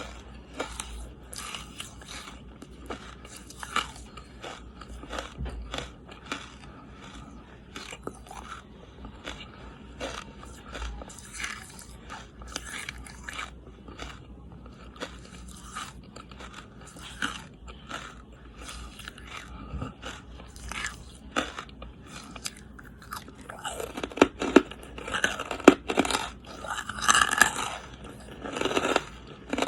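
Close-up bites and chewing of charcoal: a steady run of short, sharp crunches, growing louder and denser near the end.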